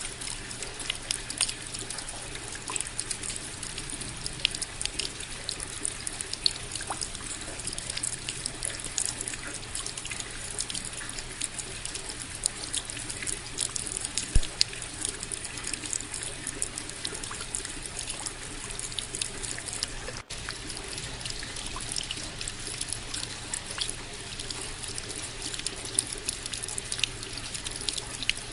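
Steady rain, with many separate drops ticking and dripping close to the microphone over a constant hiss. About twenty seconds in, the sound drops out for a split second.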